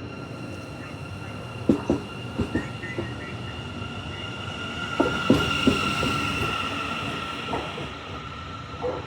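Siemens Mireo electric multiple unit running, its traction motors giving a steady high whine. Sharp clacks of the wheels passing over rail joints or points come in a few groups: a pair about two seconds in, another cluster around five seconds, and one near the end.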